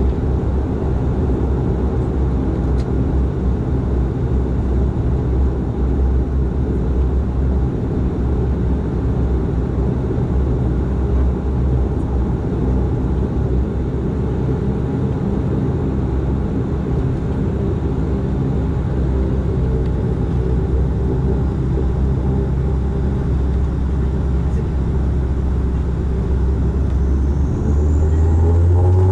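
Cabin drone of a Dash 8-400's two Pratt & Whitney Canada PW150A turboprops and propellers running steadily at low power. Near the end the engines spool up: the hum gets louder and its pitch rises.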